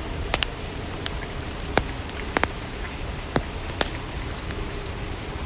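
Steady rain ambience, with scattered sharp drops or ticks landing at irregular moments.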